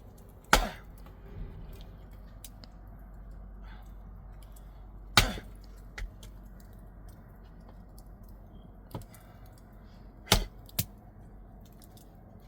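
Axe chopping firewood: single sharp strikes about every five seconds, with two in quick succession near the end.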